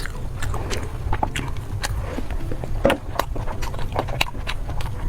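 Someone biting and chewing food close to the microphone: irregular crunches and clicks, over a steady low hum.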